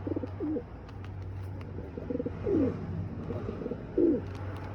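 A bird held in the hand giving several short, low calls, some sliding down in pitch, over a steady low hum.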